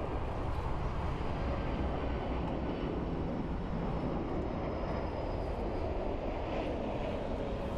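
Boeing 767-300 freighter's twin jet engines running on final approach, a steady rushing jet noise.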